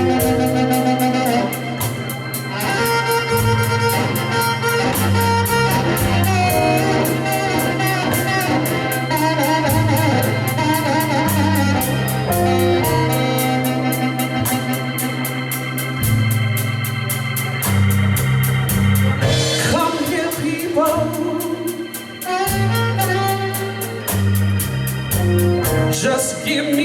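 Live blues band playing an instrumental intro, with organ over a walking bass line and a steady drum beat.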